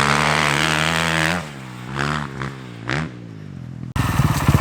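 Dirt bike engines running steadily, stopping about a second and a half in. After a quieter stretch with a couple of brief sounds, a single-cylinder dirt bike engine starts abruptly near the end, idling with a rapid, even putter.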